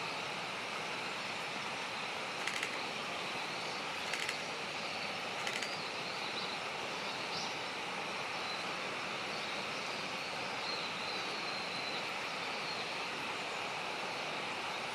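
Steady outdoor background hiss with a few faint, short bursts of rapid high ticks in the first half and a faint thin high whistle later on.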